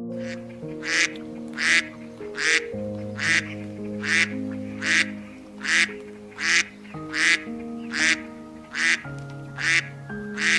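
Mallard duck quacking over and over at an even pace, about one quack every 0.8 seconds, over soft background music with long held notes.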